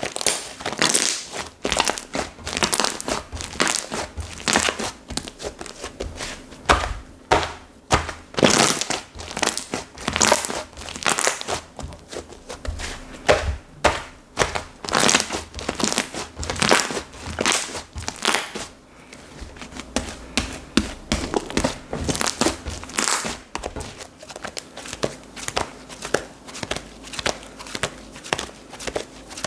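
Hands squishing, folding and pressing slime, with a steady run of sharp wet clicks and pops from trapped air.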